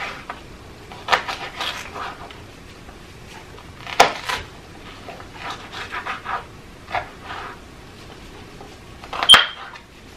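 Kitchen food-prep handling sounds: scattered rustling and light clatter, with a sharp knock about four seconds in. Near the end comes a louder knock with a short high ring, like a utensil striking a dish.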